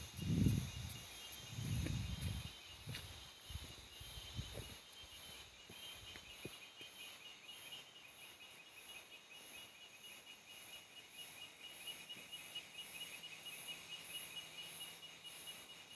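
Tropical forest insects, crickets and cicada-like callers, chirring steadily in fast pulsing trills, one high and one shrill rapid chirping lower down. Low, uneven rumbling bumps come through in the first five seconds, then stop.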